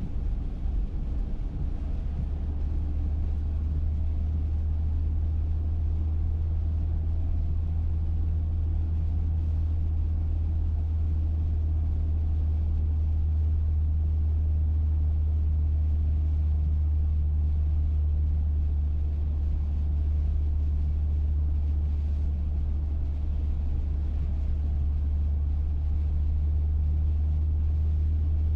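Steady low rumble of a running vehicle, unchanging throughout, with a fainter hum above it.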